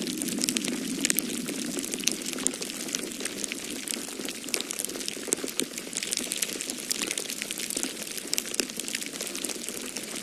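Wood fire crackling, with many small sharp pops scattered irregularly, over a steady low rushing noise of wind and fire.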